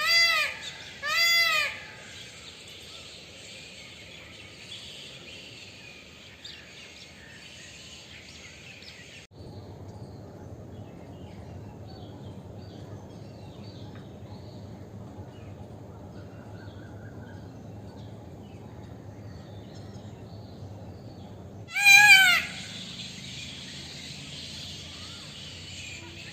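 Indian peafowl (peacock) giving loud, wailing calls, a couple in the first two seconds and one more about 22 seconds in, with a quieter steady outdoor background in between.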